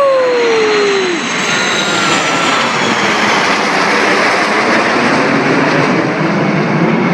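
A jet aircraft flying past, a loud steady wash of engine noise with faint high whines sliding down in pitch. A shout trails off, falling in pitch, in the first second.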